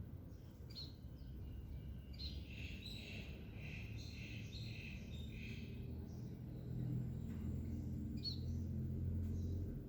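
Wild birds singing: a quick run of repeated chirping notes a couple of seconds in, with single short chirps before and after. A low steady hum underneath grows louder in the second half.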